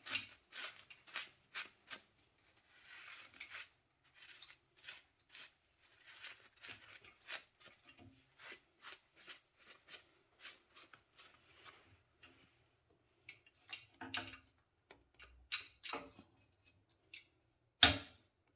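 Irregular clicks, knocks and rubbing of tools and metal parts being handled, several a second at first and sparser later, with a sharp knock near the end.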